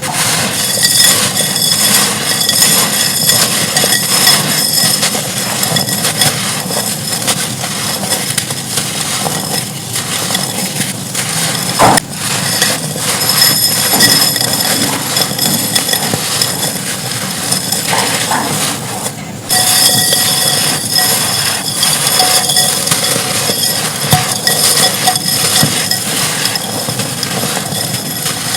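Lumps of dry red clay dirt and clay-pot pieces crumbled and crushed by hand: dense, continuous crackling and crunching, with grains and fragments clinking as they fall. The sound changes abruptly about twelve seconds in and again near twenty seconds, where one clip cuts to the next.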